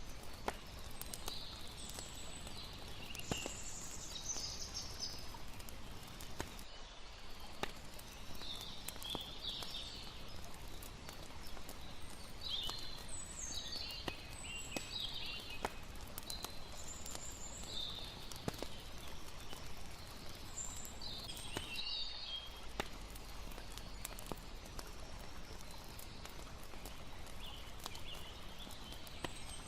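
A layered campfire-and-water night ambience. A campfire crackles with scattered sharp pops over a steady hiss of water, while high chirping calls come in short clusters every few seconds.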